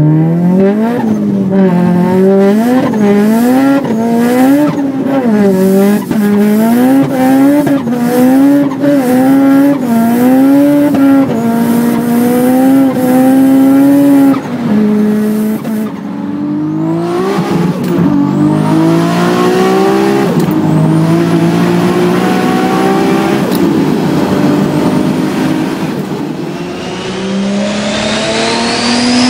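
Turbocharged car engines under hard acceleration, revving up and dropping back over and over as they shift through the gears. Near the end a high turbo whistle rises with the revs.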